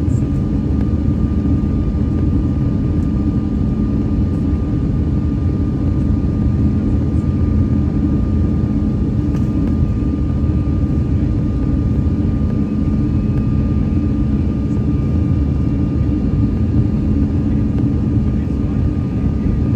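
Steady cabin noise inside an Airbus A319 airliner: a deep, even rumble of engines and airflow with a faint steady whine above it.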